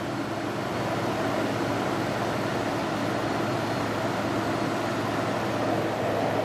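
Ford F-150's 3.5-litre V6 idling steadily with the A/C on maximum and its compressor running, while the system takes its refrigerant charge. The sound is an even mechanical rush with a faint steady hum.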